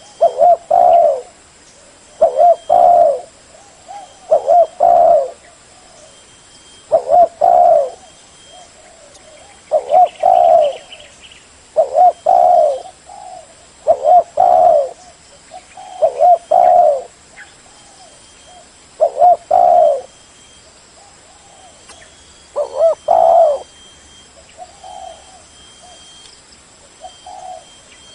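Spotted dove cooing over and over, a loud phrase of several coos about every two seconds, with softer single coos in the gaps.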